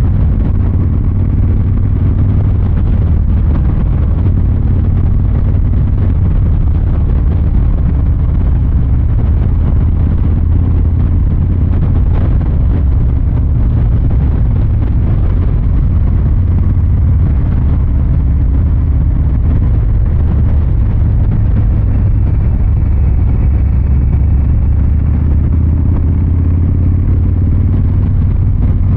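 Harley-Davidson Fat Boy 114's Milwaukee-Eight 114 V-twin exhaust rumbling steadily while riding, its pitch rising and falling gently with light throttle changes.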